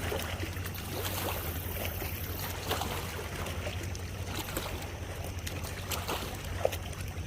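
Riverbank ambience at night: a steady low hum under a haze of noise, with scattered faint clicks.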